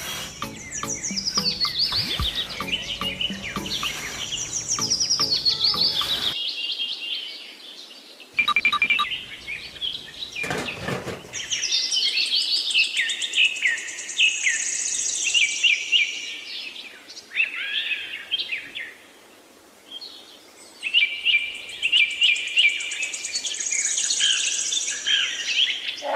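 Birds chirping and singing in quick, repeated trilled phrases. In the first few seconds a low hum with clicks runs underneath.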